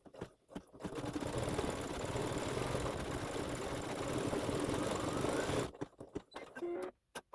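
Embroidery machine starting up after a few clicks and stitching steadily for several seconds, then stopping abruptly; this run stitches the shadow-work outline of the design. A few short clicks follow the stop.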